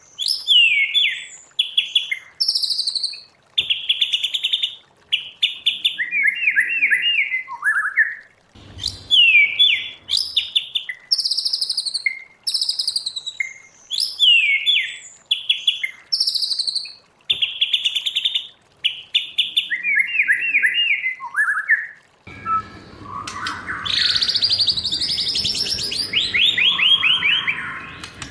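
White-rumped shama singing: fast, varied phrases of clear whistles and rapid trills, the same run of phrases repeating about every eight seconds. In the last few seconds a longer series of trills plays over a steady background noise.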